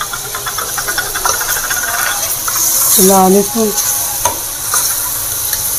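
Mutton, tomatoes and green chillies sizzling in desi ghee in an aluminium pot while a metal spoon stirs and scrapes against the pot. A brief squeak about three seconds in.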